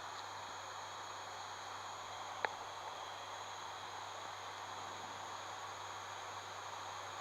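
Steady cockpit noise of an ATR 72-600 turboprop in the climb: engines, propellers and airflow as an even hiss with a low steady hum. A single sharp click about two and a half seconds in.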